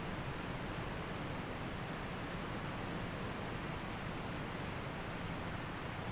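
Waterfall and mountain creek rushing: a steady, even roar of falling and flowing water with no change.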